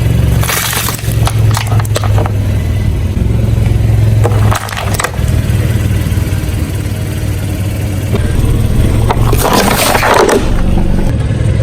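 A car engine running steadily while its tyres crush objects beneath them, with several loud crunching bursts; the longest and loudest comes near the end.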